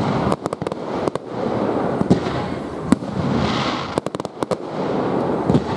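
Fireworks going off: clusters of sharp cracks and pops over a continuous rumbling wash that swells and fades.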